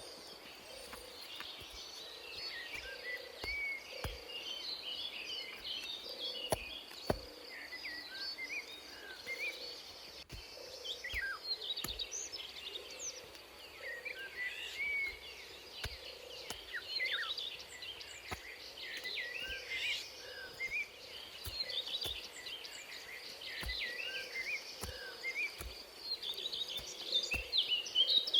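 Forest ambience: many birds chirping and calling over a steady high insect drone. A faint low note repeats about once a second, and soft ticks are scattered throughout.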